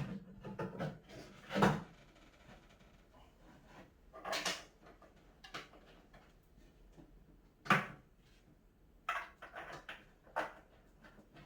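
Irregular knocks and clunks of cat tower panels and posts being handled and fitted together during assembly, a handful of separate hits with quiet handling noise between.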